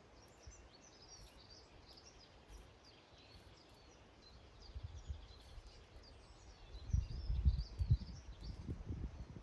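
Small garden birds chirping and twittering, high and faint, throughout. A low rumble comes in about five seconds in and is loudest for the last two seconds or so.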